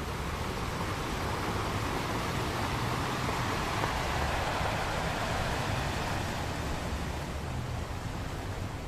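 Ocean waves breaking and washing on a beach, a steady rush that swells about midway and eases off near the end.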